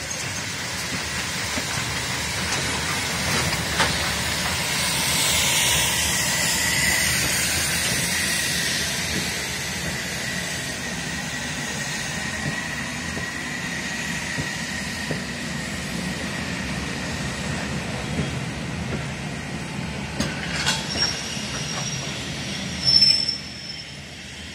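Heritage steam train passing at low speed: wheels rolling over the rails with a steady high-pitched wheel squeal, easing off as the last coaches go by.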